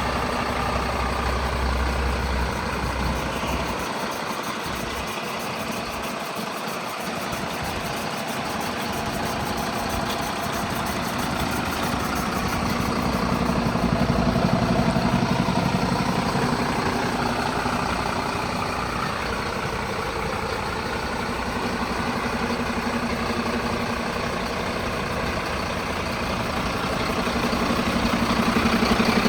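A Mercedes-Benz Atego 1524 truck's 238 hp diesel engine idling steadily. The sound grows louder around the middle and again near the end.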